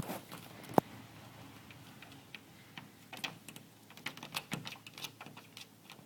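Light, irregular tapping and clicking of a house cat's paws and claws on window glass, with one sharp click about a second in and quicker taps in the second half.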